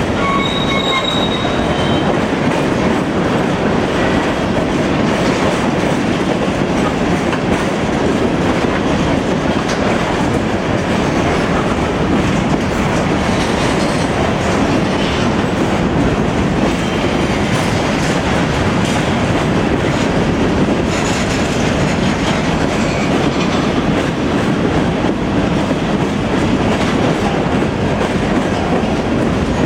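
Freight train cars rolling steadily past on the main line, wheels clattering over the rail joints, with a faint thin wheel squeal in the first couple of seconds.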